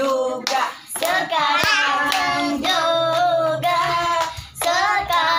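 Children singing a song together, with hands clapping along.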